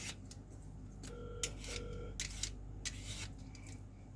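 Knife peeling a papaya: scattered sharp clicks and short scrapes of the blade on the skin. Two short, faint beeps sound about a second in.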